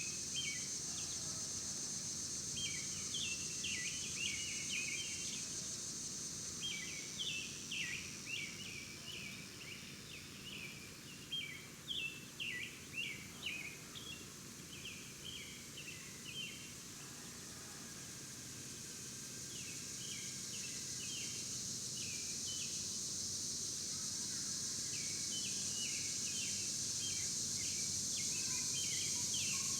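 Outdoor ambience of small birds chirping in quick, repeated runs of short notes, over a steady high-pitched drone of insects.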